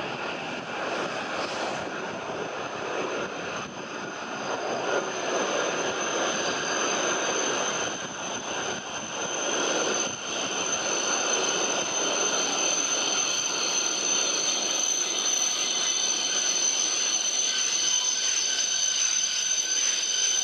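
W7 series Shinkansen train approaching and pulling into the station platform: a continuous rush of running noise that grows gradually louder, with a steady high whine over it.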